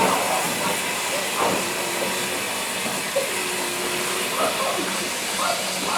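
Steam locomotive hissing steadily while standing, with faint voices talking over it.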